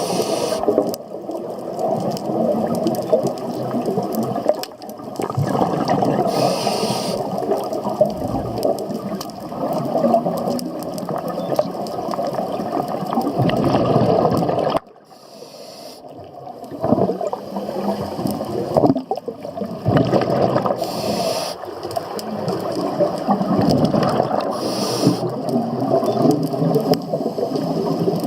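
Scuba diver breathing underwater through a regulator: churning, bubbling exhales with short hissing breaths every few seconds.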